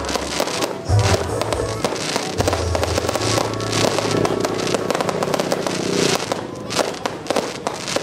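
Aerial fireworks bursting and crackling in rapid succession, over loud music with a deep bass beat; the music drops away about six seconds in while the crackling goes on.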